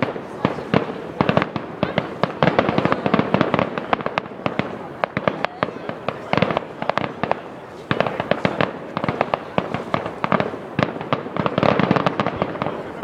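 Fireworks display: rapid, overlapping bangs and crackles of exploding shells, several a second.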